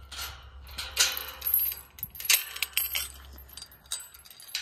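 Irregular rustling and scraping with sharp metallic clinks, the handling noise of someone moving about close to the microphone.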